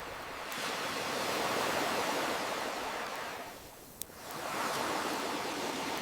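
Ocean waves washing onto a shore: one surge ebbs away about three and a half seconds in and the next builds up. A single sharp campfire crackle pops about four seconds in.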